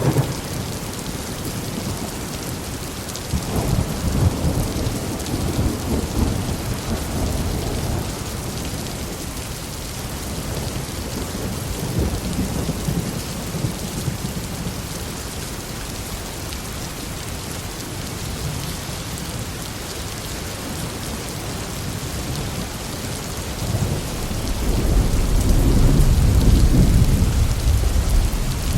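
Steady heavy rain with rolling thunder. The rumbles swell a few seconds in, again midway, and loudest from about four seconds before the end.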